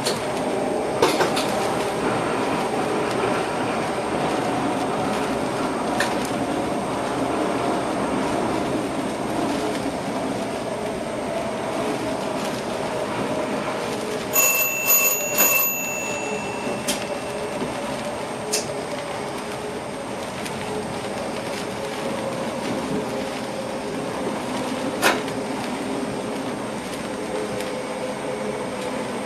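Steady running noise inside a moving train's driver's cab, the hum of the drive and wheels on the rails, with occasional sharp clicks from the track. About halfway through, three short high electronic beeps sound in quick succession from the cab equipment.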